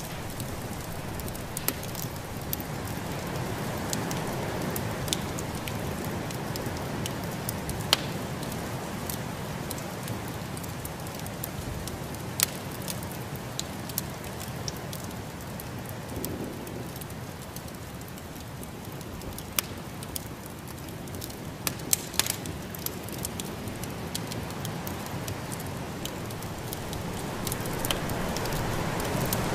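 Wood fire in a fireplace crackling, with scattered sharp pops over a steady rushing noise that grows a little louder near the end.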